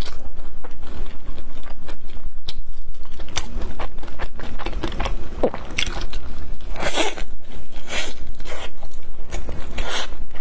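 Close-miked chewing of pan-fried Chinese chive pockets: steady wet chewing clicks, with a few louder crunches of the fried crust in the second half.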